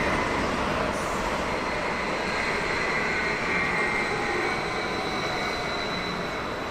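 Train running into the station platform, a steady rumble of wheels on rail with a faint high whine, slowly getting quieter as it slows.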